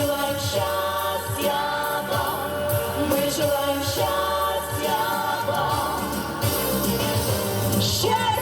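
Music: many voices singing a pop song's chorus together over a backing track, with long held notes.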